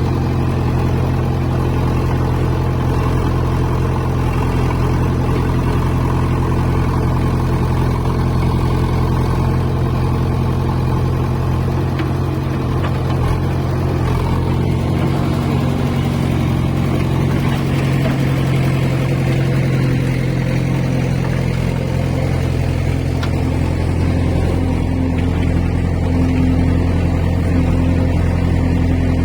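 A diesel engine running steadily at a constant speed, its note holding the same throughout.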